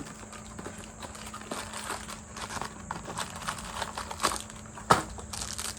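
Snack packaging being handled and opened: scattered crackles and clicks, with one sharp snap about five seconds in.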